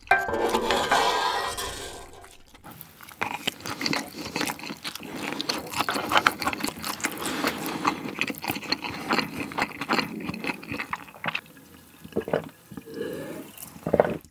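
A wooden spoon scraping the last fried rice across a metal grill pan, then several seconds of close-miked chewing with small wet clicks. Shortly before the end, water is poured into a cup, rising in pitch as it fills.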